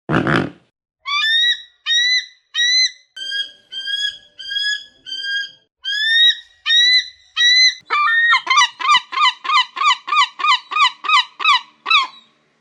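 A short grunt at the very start, then birds calling: a series of about nine evenly spaced, high-pitched calls. About eight seconds in, a faster run of lower calls follows, about four a second.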